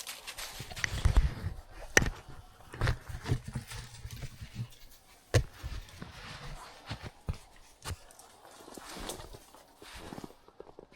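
Footsteps crunching through dry leaves and brush, uneven and stop-start, with a few sharp cracks like snapping twigs about 2 and 5.5 seconds in.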